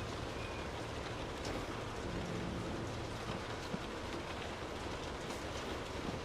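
Steady rainfall: an even hiss with scattered sharper ticks of individual drops.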